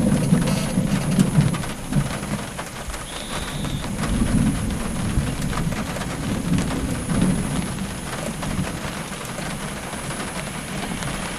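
Thunder from a lightning strike about 3 km away, a low rolling rumble that swells and fades several times.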